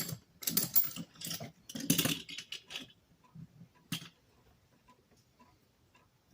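Small hard objects rattling and clinking as they are handled, for about three seconds, then a single knock. After that, a faint ticking about twice a second.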